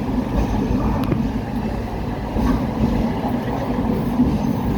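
Hong Kong tram running along its rails, a steady rumble mixed with wind noise on the microphone from the breeze through the open windows.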